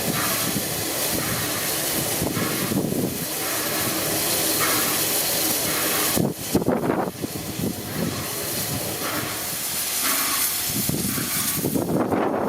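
Victorian Railways R class 4-6-4 steam locomotive No. 766 letting off steam: a loud, steady hiss that breaks off briefly about six seconds in and again near the end.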